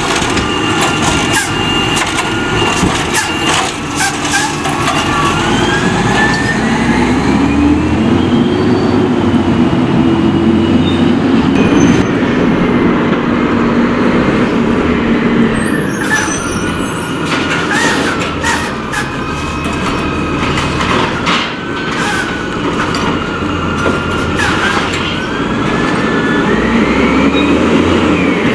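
Curbtender recycling truck at work: the engine revs up and down several times with rising and falling whines, amid repeated clattering knocks.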